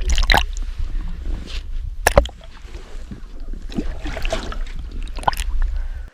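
Wind rumbling on the microphone over water sloshing and handling knocks around a small fishing boat, with one sharp knock about two seconds in.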